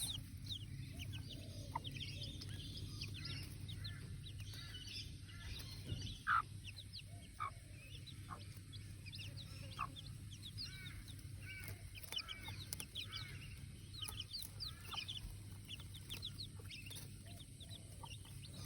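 Newly hatched chicks peeping continuously with many short, high cheeps, and a mother hen clucking a few times, lower and louder.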